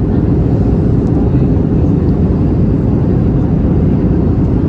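Steady low roar of airflow and engine noise inside the cabin of an Airbus A321 on approach, with a faint steady hum.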